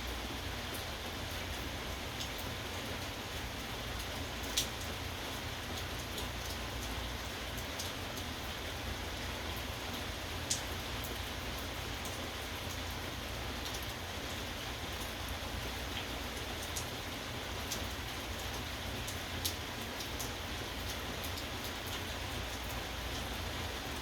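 Steady rain falling, with a few sharp drop taps standing out, the clearest about 4.5, 10.5 and 19.5 seconds in.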